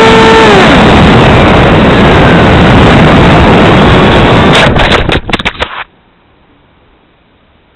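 Loud rush of wind and the Radjet 800's electric ducted fan on the onboard camera's microphone, broken about four and a half seconds in by a quick series of knocks and bumps lasting about a second as the plane comes down in the snow, then an abrupt cut to quiet.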